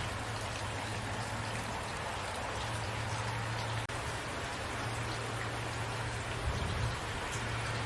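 Steady rainfall: an even hiss of rain with scattered individual drops, over a steady low rumble. The sound cuts out for a split second about halfway through.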